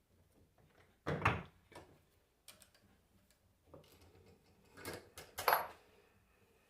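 Metal alternator parts and tools handled on a workbench: a series of separate knocks and clatters, the loudest about a second in and two close together near the end, with quiet handling between them.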